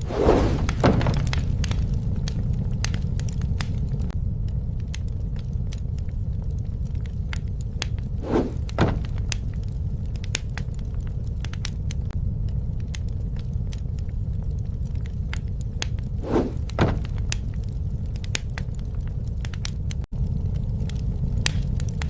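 Campfire burning: wood crackling and popping in scattered sharp snaps over a steady low rumble of the flames, with a louder double knock at the start and twice more about eight seconds apart.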